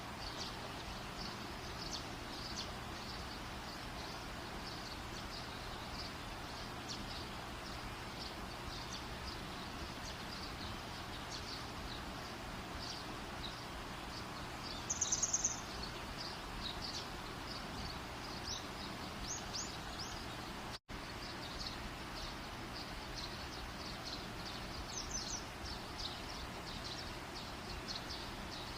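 Wood fire burning with a steady hiss and many small, quick crackles. A short, high chirp comes about halfway through. The sound drops out completely for an instant about two-thirds of the way in.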